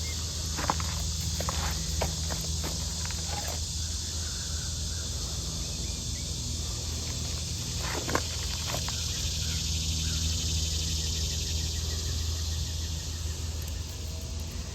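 Steady chorus of insects, crickets among them, with scattered sharp clicks and rustles of handling, mostly in the first few seconds and again about halfway through, over a low steady hum.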